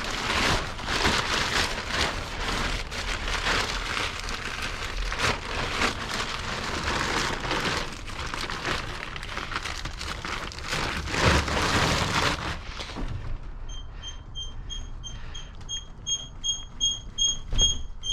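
Rustling and clattering of tie-down straps being handled on a motorcycle for about twelve seconds. Then a rapid, evenly spaced high squeak, about three to four a second, which is the squeaking issue that comes up as the bike is strapped down.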